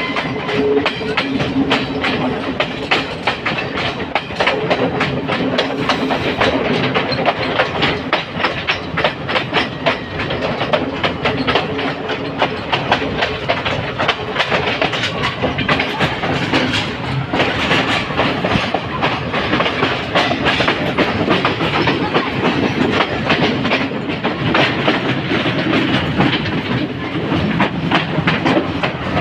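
Sri Lanka Railways passenger train running, heard from on board: a continuous rapid clickety-clack of wheels over the rails over the steady rumble of the coaches.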